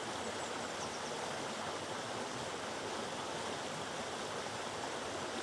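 Water rushing steadily over a waterfall among river boulders, an even unbroken roar of falling water.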